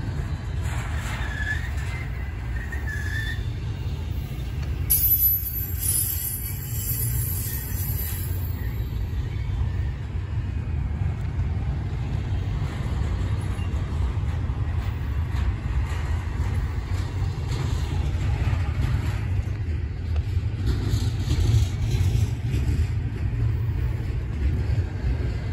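CSX intermodal freight train rolling past, a steady low rumble, with a brief high hiss about five seconds in.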